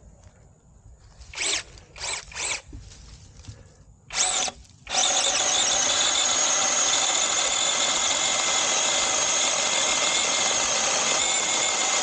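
SeeSii battery-powered chainsaw's electric motor and chain run in three quick blips and then a fourth, then run steadily from about five seconds in, with a high, even whine.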